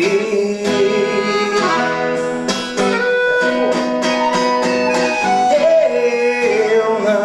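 Instrumental passage of a live song: a guitar strumming and picking under long held notes that fit an accordion, with no singing.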